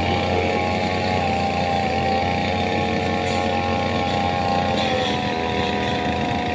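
An engine running steadily at an even speed, with a steady pitched tone that sags slightly about five seconds in.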